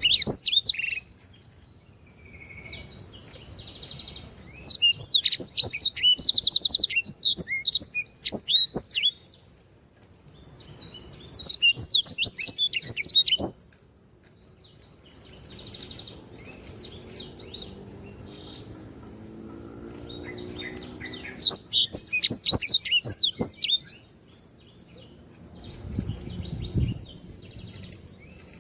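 Black-throated canary (sanger) singing in long bursts of rapid, high-pitched twittering trills, several phrases a few seconds long broken by short pauses: the lively full song prized in a 'gacor' bird.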